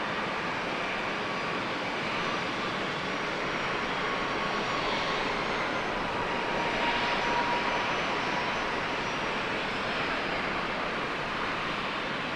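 Jet airliner's engines at takeoff power: a steady rushing noise with a faint whine, swelling slightly about seven seconds in.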